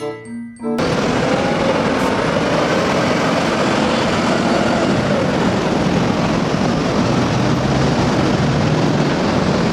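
Loud, steady vehicle noise, an even rush with faint wavering engine pitches, starting abruptly about a second in.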